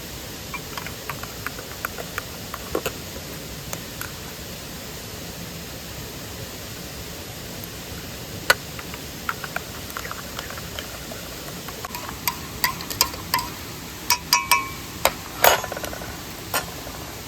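Steady rush of a mountain stream and waterfall, with scattered light clicks throughout and, in the last few seconds, a run of sharper knocks and short ringing metallic clinks.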